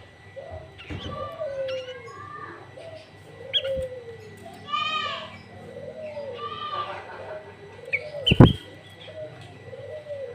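Recorded birdsong for luring sooty-headed bulbuls: bulbul and filler calls from a greater green leafbird over a low cooing call that repeats about once a second. Several higher phrases come through, and there is one loud sharp call about eight seconds in.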